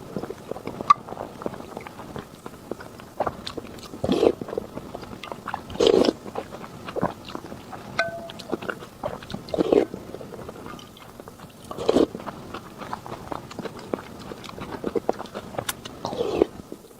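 Close-miked eating sounds: steady chewing with many small wet mouth clicks, and louder short bursts of biting or slurping about every two seconds.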